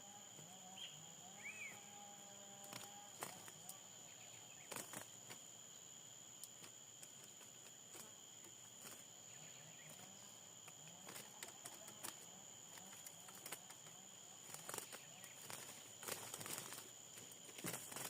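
Faint outdoor ambience: a steady high insect-like buzz with a couple of faint bird chirps in the first two seconds and scattered light clicks, busier near the end.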